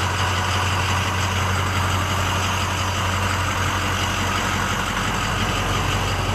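Ford 6.0L Power Stroke V8 turbo diesel idling steadily with a low, even hum.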